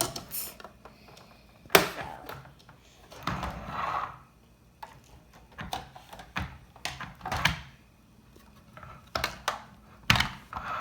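Small plastic toy pieces being handled and set down: scattered clicks and knocks, the loudest a little under two seconds in, with a short stretch of rustling about three seconds in.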